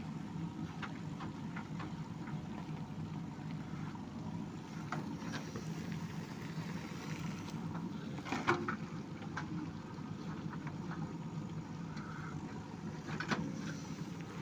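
Backhoe loader's diesel engine running steadily at idle, with scattered clicks and two louder sharp knocks about eight and a half and thirteen seconds in.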